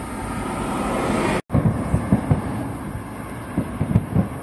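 Fireworks bursting at a distance in a rapid, irregular run of low thuds, several a second, starting after a sudden break about a second and a half in. Before the break there is a steady, rising rush of noise.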